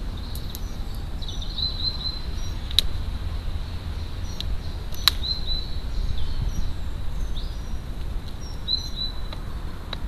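Small birds chirping in short, high runs, over a steady low rumble. Two sharp taps, about three and five seconds in, come from a crow's beak striking the plastic feeding dish as it pecks at mealworms.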